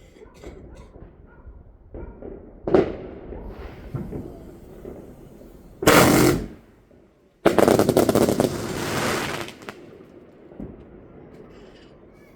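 Fireworks going off: a sharp bang about three seconds in, a loud half-second burst around six seconds, then a rapid volley of crackling cracks lasting about two seconds.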